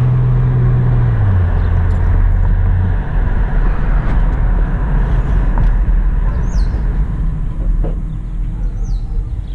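A 2008 Buick Enclave's 3.6-litre V6 and tyre noise on a test drive, heard from inside the cabin. A low engine tone drops in pitch about a second in and fades out about three seconds in, leaving steady road noise.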